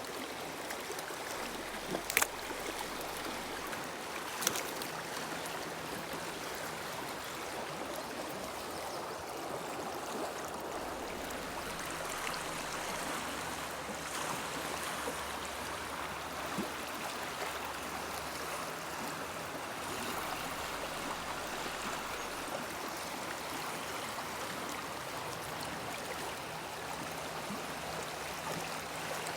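River water flowing with a steady rushing sound. Two brief clicks come in the first few seconds.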